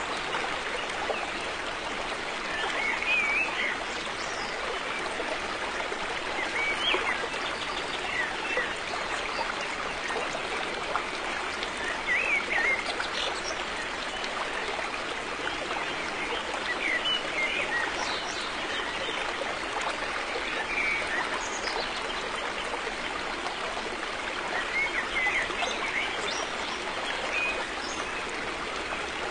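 River water flowing as a steady rush, with brief higher splashing or gurgling sounds every few seconds.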